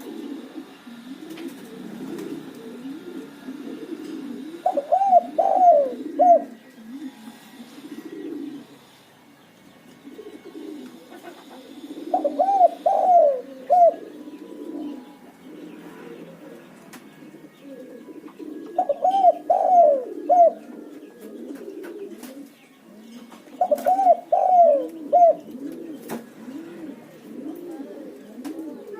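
Spotted doves cooing: four loud phrases of a few rising-and-falling notes, each about a second and a half long, come every six or seven seconds over steady lower cooing from other doves.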